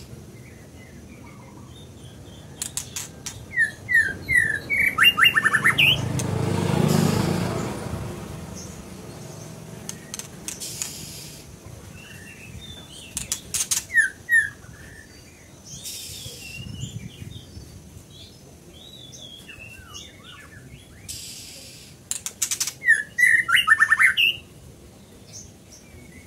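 A songbird singing loud bouts of quick, chirpy phrases three times, with pauses between. A vehicle passes about seven seconds in.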